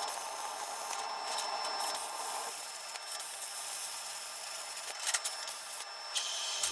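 Steady rasping, hissing noise of metal being worked on the truck cab, broken by a few short gaps.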